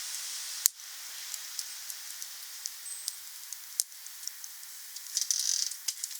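Wood fire burning with a steady hiss and scattered crackles, a sharp pop about a second in, and a brief louder hiss near the end.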